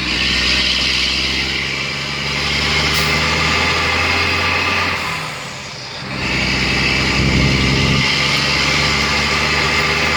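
2004 Mack Granite dump truck's diesel engine running steadily. It dips briefly about six seconds in, then comes back up to the same level.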